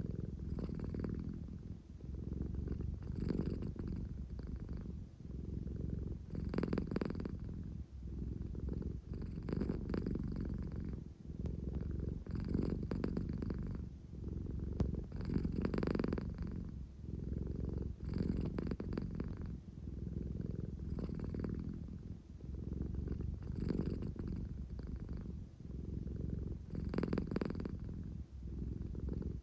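An American Shorthair cat purring steadily, the purr swelling and easing about once every three seconds with its breathing. It is the drowsy, contented purr of a cat that is sleepy and wants affection.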